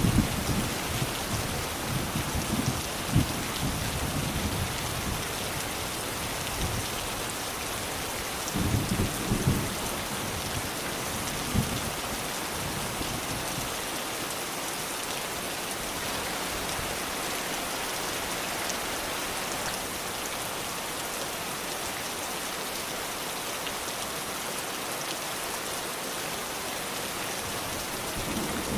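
Steady rain falling, with low rumbles of thunder in the first few seconds and again about nine seconds in, then steady rain alone.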